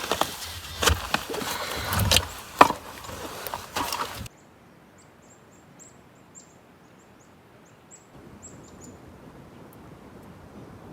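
A quick run of knocks and scrapes from hand work, which cuts off suddenly. A faint outdoor hush follows, with a string of short, high chirps from small birds.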